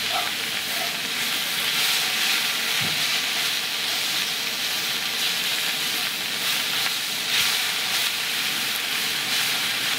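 Pre-cooked chicken, onions and bell pepper sizzling steadily in a frying pan on a camp stove, stirred now and then with a utensil.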